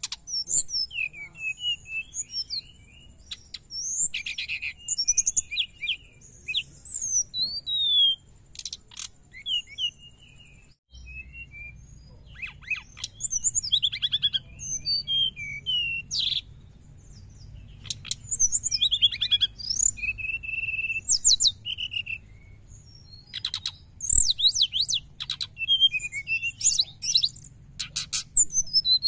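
Brown-chested jungle flycatcher (sikatan rimba dada coklat) singing nonstop in a rapid twittering chatter of short high chirps, quick up-and-down whistles and fast trills. The singing breaks off briefly about ten seconds in, then resumes just as busily. A faint steady high whine sits under the song for the first third.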